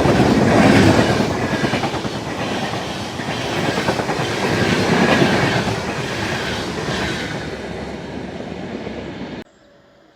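A train passing close by, its wheels clattering rhythmically over the rail joints, swelling as coaches go past; the sound cuts off suddenly near the end.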